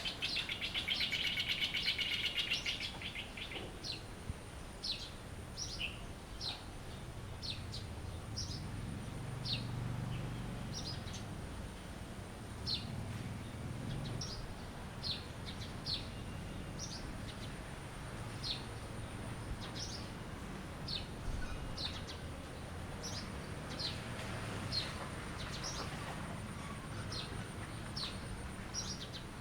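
Songbirds singing: a loud, rapid trill for the first few seconds, then short high chirps, each dropping in pitch, repeated about once a second. A steady thin high whine runs underneath.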